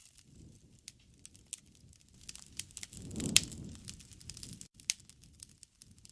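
Wood fire crackling, with scattered sharp pops of burning wood. A low rush swells about three seconds in, and the loudest pop comes at its peak.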